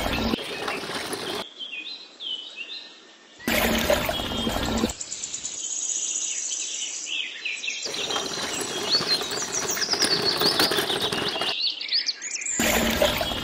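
Small birds chirping and calling over and over, many short quick rising and falling notes. A rougher hiss-like noise cuts in and out in several stretches a second or two long.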